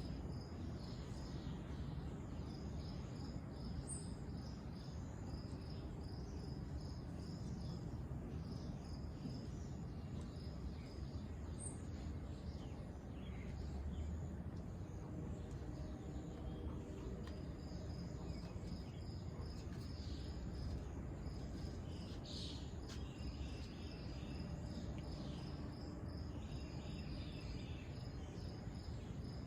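Insects chirping in a steady, evenly pulsed high trill over a constant low rumble, with a few brief extra calls late on.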